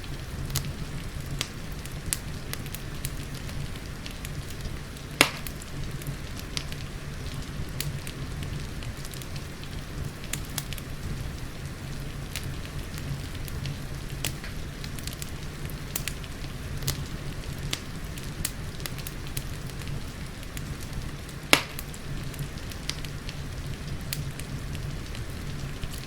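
Wood fire in a fireplace crackling with frequent small snaps and two louder pops, over a steady low rumble and a soft hiss of rain.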